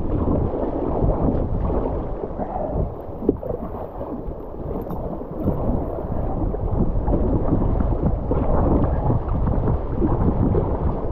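River water rushing and splashing around a kayak as it is paddled through a riffle, with wind rumbling on the microphone.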